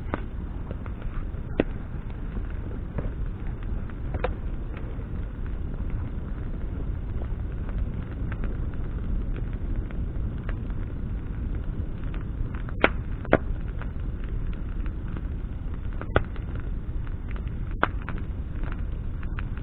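Wood bonfire burning with a steady low rush, broken by sharp crackling pops from the burning branches, about six loud ones and several fainter.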